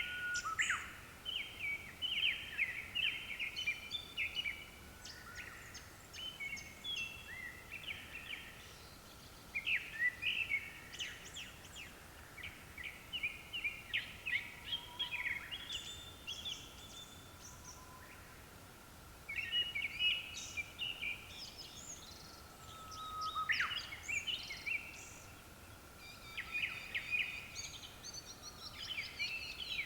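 Japanese thrush singing: bursts of rapid, varied notes that jump up and down in pitch, separated by short pauses.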